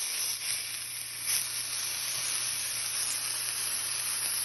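Shishito peppers and portobello mushroom caps sizzling in hot oil in a cast iron pan: a steady hiss with a couple of faint crackles in the first second or so, and a faint low hum underneath.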